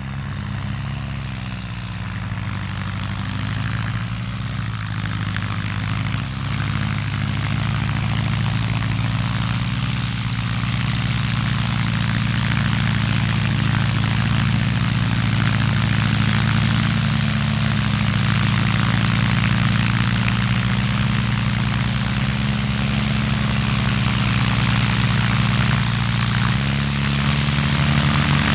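Four-cylinder diesel farm tractor engine working steadily, its pitch and loudness rising over the first couple of seconds and then holding, with a brief change in the engine note near the end.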